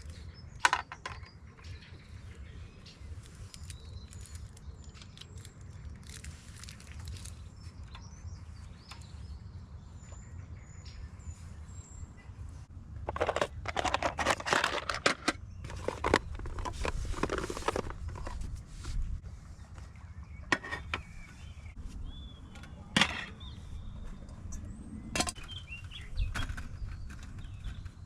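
Riverside ambience: a steady low rumble with small birds chirping faintly, broken about halfway through by several seconds of clattering and rustling, with a few sharp knocks later on.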